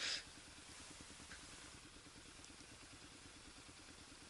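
Kawasaki KLR single-cylinder motorcycle engine running faintly at low, steady revs with an even pulsing beat, after a short burst of noise at the very start.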